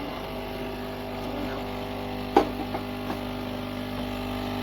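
De'Longhi Vintage Icona espresso machine's pump running with a steady hum, with a sharp click about two and a half seconds in.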